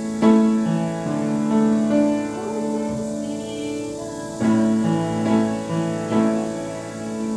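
Piano playing a slow hymn in held chords, a new chord or note struck about every second and left ringing.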